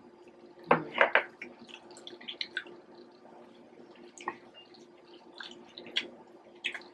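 Close-up eating sounds: wet chewing smacks and small mouth clicks at irregular moments, with a couple of louder ones about a second in. A faint steady hum runs underneath.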